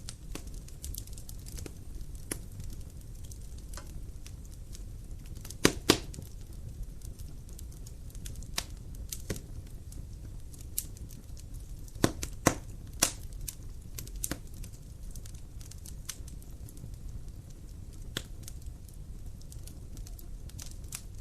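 Wood fire burning in a fireplace: a steady low rumble of flame with frequent sharp crackles and pops, and a few louder snaps in quick pairs near the middle.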